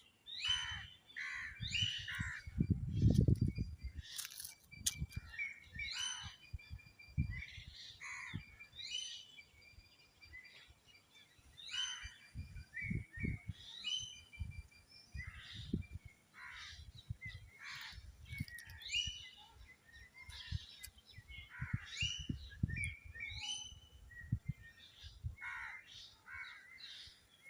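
Birds chirping, many short calls one after another, over soft low thumps, the loudest about three seconds in.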